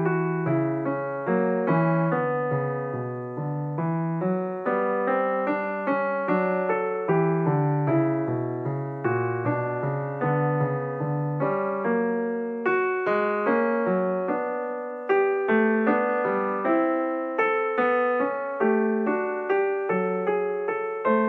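Background piano music: a gentle melody over a steady rhythm of struck notes that each ring and fade.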